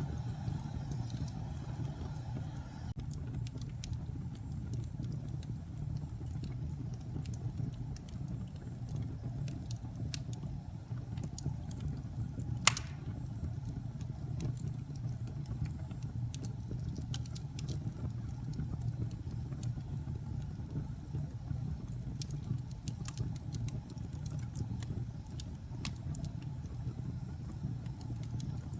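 Wood fire burning in a fireplace: a steady low rumble with scattered crackles, and one loud pop near the middle.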